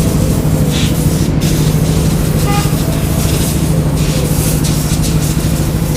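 Two-stroke motorcycle engine running steadily through its expansion-chamber exhaust, holding an even, unchanging pitch.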